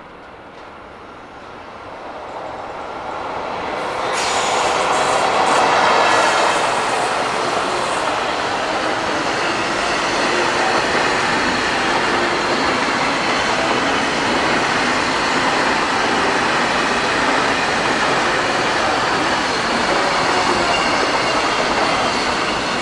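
Container freight train hauled by an EF65 electric locomotive passing: the noise builds over the first four seconds as the train draws level, then the wheels of the long line of container wagons keep rolling past on the rails at a steady level.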